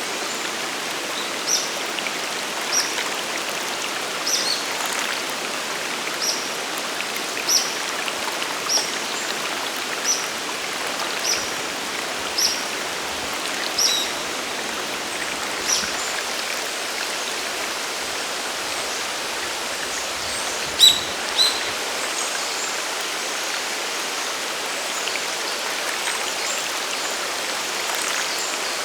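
Steady rushing water of a mountain waterfall and stream. A small bird gives short, high chirps at a steady pace of a little under one a second for the first half, then two louder chirps about two-thirds of the way through.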